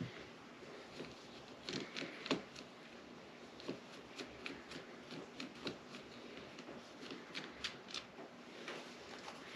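Scattered light clicks and clinks of tools and metal engine parts being handled, with a small cluster of louder taps about two seconds in.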